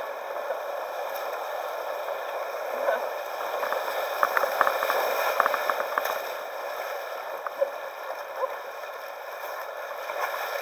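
Rushing river water around a kayak, with a louder stretch of splashing from about four to six seconds in.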